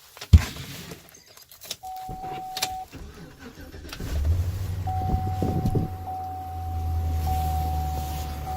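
A door thumps shut, a steady in-cab warning chime sounds, and about four seconds in the pickup truck's diesel engine cranks, catches and settles into a steady idle, a cold start after sitting under snow, with the chime still going.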